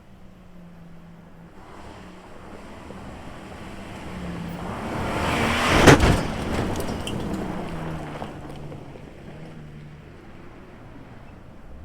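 Holden Rodeo ute driving on a dirt bush trail: engine and tyre noise build to a peak about halfway through, with a sharp crack at the loudest point, then fade away.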